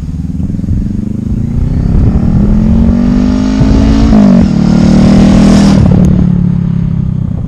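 Motorcycle engine accelerating with rising pitch, dropping sharply in pitch about four seconds in as it shifts up a gear, then holding steady before easing off near the end.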